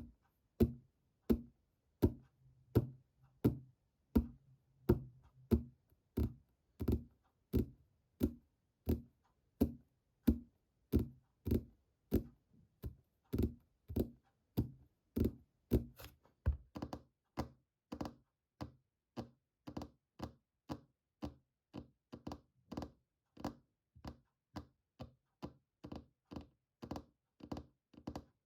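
Fingertips tapping on a hard object in a steady rhythm of dull knocks, about two a second, picking up slightly toward the end.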